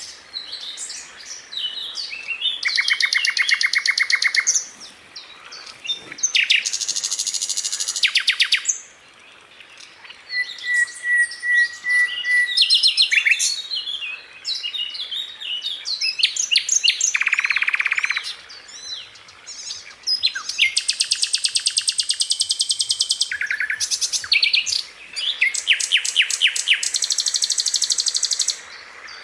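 Sikatan londo flycatcher singing: fast rattling trills of rapidly repeated notes alternating with sharp high chips and short pauses, with one thin, steady whistled phrase about ten seconds in.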